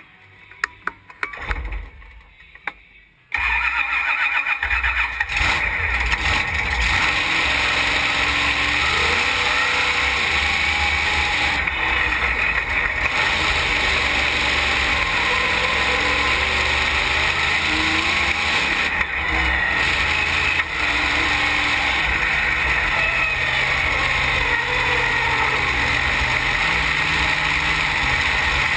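Wheelie race car's engine heard from inside the cab: a few faint clicks, then about three seconds in the engine fires and keeps running loudly and steadily with a rough low rumble.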